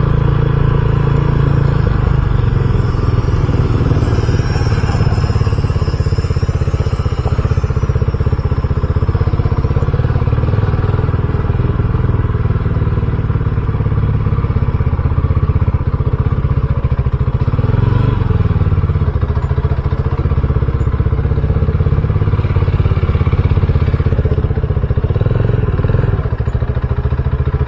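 RUSI Classic 250 motorcycle engine running steadily while the bike is ridden, with a brief rise and fall in engine pitch about eighteen seconds in.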